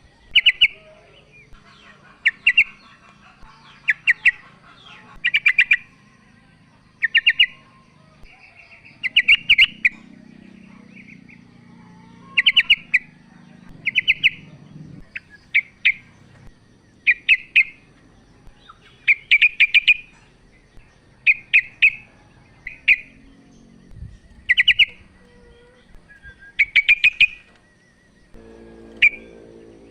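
Female yellow-vented bulbul (trucukan) calling to a male: short bubbly chirps in quick bursts, repeated about every one to two seconds.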